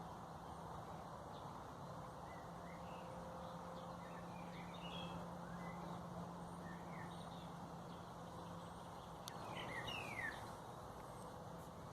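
Small birds chirping sparsely over a steady low hum and background noise, with a louder burst of bird calls about ten seconds in, one sliding down in pitch.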